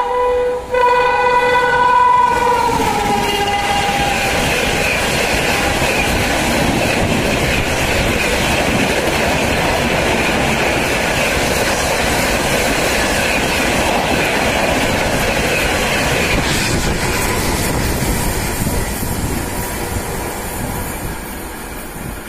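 A WAP-7 electric locomotive on a Duranto Express blows its horn, briefly broken into two blasts, the horn dropping in pitch as the locomotive passes at speed. Then the coaches rush past with a loud steady rolling noise that fades away over the last few seconds.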